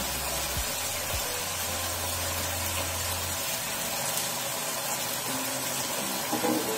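Chopped vegetables frying in a pan with a steady sizzle as tomato sauce is poured in.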